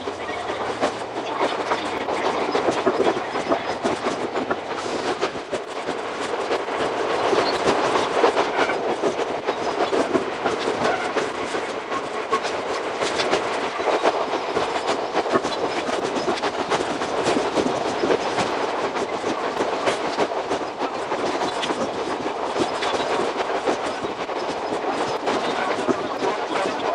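Iga Railway 200 series electric train (ex-Tokyu 1000 series) running on the line, wheels clattering over the rails in a dense, steady stream of clicks, with the audio sped up six times.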